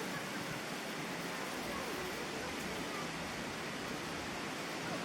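Steady outdoor background hiss with no distinct calls or events.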